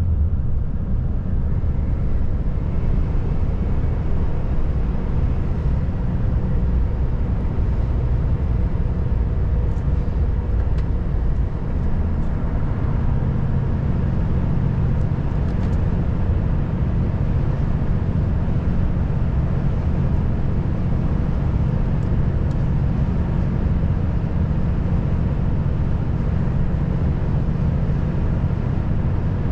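Volvo FH540 truck's 13-litre six-cylinder diesel engine and tyre noise while driving, a steady deep drone with a brief dip about eleven seconds in.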